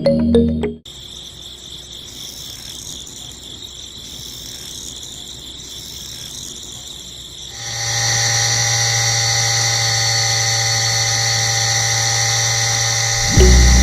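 A small electric motor runs with a steady whine, faint at first. About seven and a half seconds in it becomes louder and steadier, a constant hum with a high whine over it. Short stretches of background music come at the very start and near the end.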